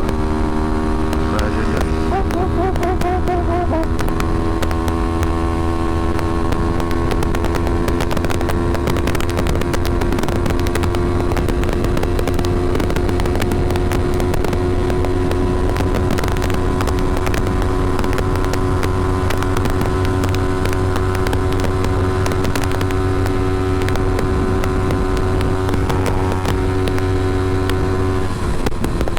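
Kawasaki Ninja 250R's parallel-twin engine running at a steady speed while riding, heard with wind noise on a helmet-mounted microphone. The engine note wavers in the first seconds, then holds steady, and drops just before the end.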